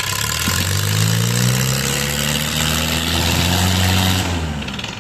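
Mahindra tractor diesel engine running hard at high revs under heavy pulling load in a tractor tug-of-war. Its note holds steady, then drops away about four and a half seconds in.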